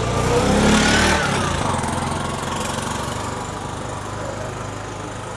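A motor vehicle's engine passing close by on the street. It grows loud about a second in, its pitch rising and then falling, and fades away after that.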